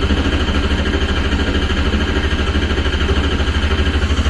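Race car engine running just after being started with its start button, a loud steady idle with an even, rapid pulsing beat.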